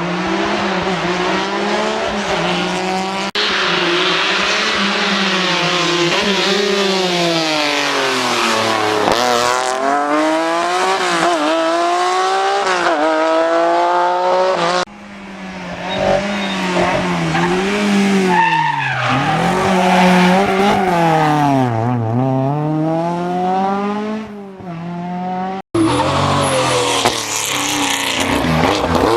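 Historic rally cars driven hard on a stage. Engines rev up and drop back through gear changes and lifts off the throttle, and tyres squeal now and then. The sound switches abruptly between cars several times.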